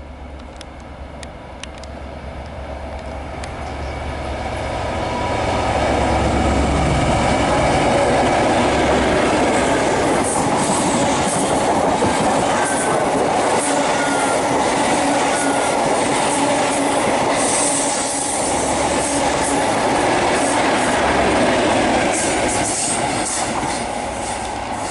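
High Speed Train (InterCity 125) passing slowly, its diesel power car's engine and the wheels growing louder over the first few seconds. The coaches' wheels then rumble steadily and clack over the rail joints, with a faint wheel squeal about halfway through.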